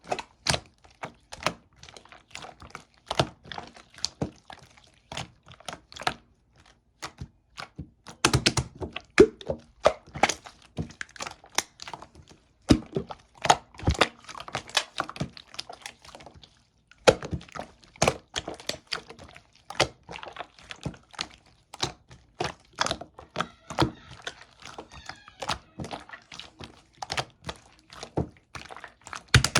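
Purple slime being pressed, stretched and folded by hand, making a dense run of sharp clicking pops, with a short break just past halfway.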